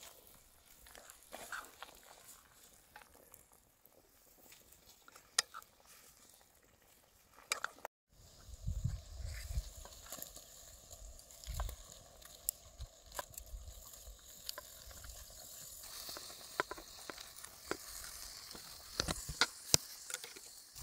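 Cooking sounds from a pan: a faint sizzle with stirring and scattered sharp clicks of utensils. The sound drops out for a moment about eight seconds in, and from there low thumps come in; the sizzle grows steadier and hissier in the last few seconds.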